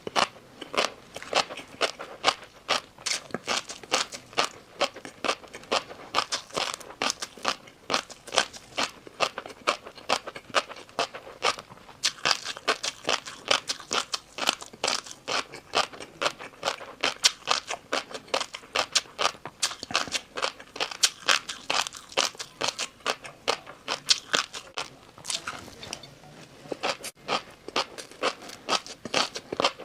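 Close-up mouth sounds of someone eating crunchy noodles: a rapid, steady run of crisp crunches, about three to four a second, with a brief pause a few seconds before the end.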